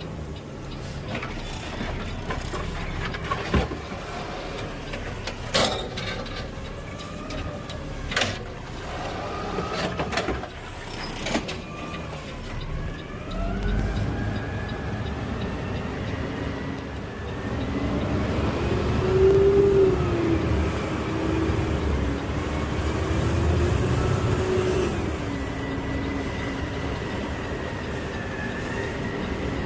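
Automated side-loader garbage truck's engine running, its pitch rising and falling as it pulls away and drives, with a few sharp knocks in the first dozen seconds.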